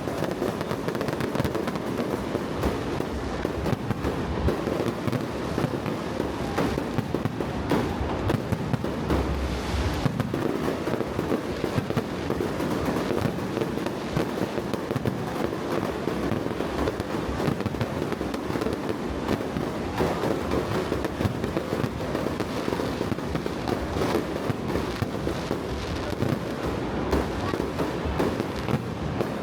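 Fireworks going off in a dense, unbroken barrage of overlapping pops and crackles.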